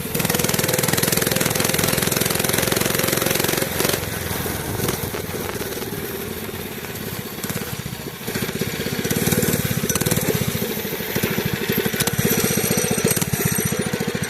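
Mini bike's small engine running with a rapid, even chugging. It eases off for a few seconds in the middle and then picks up again.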